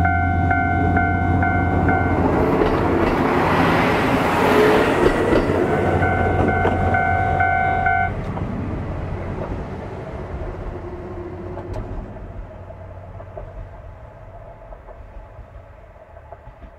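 A level-crossing alarm ringing in a fast repeating tone while the KiHa 54 diesel railcar runs past close by. The alarm stops about eight seconds in, and the railcar's engine and wheel noise then fade away as it draws off.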